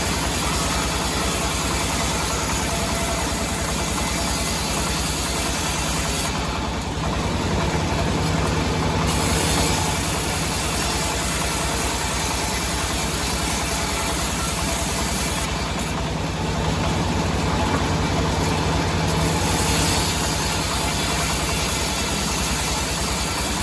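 A heavy engine running steadily at an even, idle-like speed, with a fast regular firing pulse.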